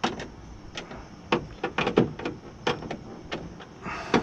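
Irregular sharp clicks and knocks, about a dozen, as a car door's window glass is set into the door and fitted to the new regulator track, with glass and metal parts knocking together.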